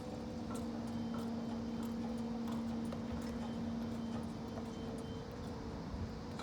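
A motor running steadily with a low held hum, with faint scattered clicks over it.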